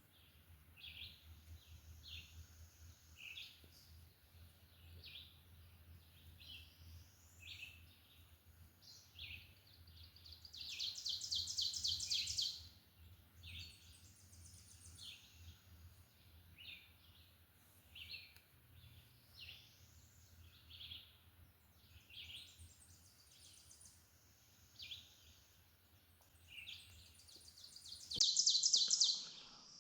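Songbirds calling in spring woods: a short high chirp repeated about once a second, with two louder, rapid high trills, one about ten seconds in lasting two seconds and another near the end.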